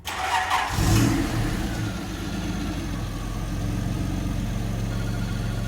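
A car engine starts up, rises briefly about a second in, then settles into a steady idle.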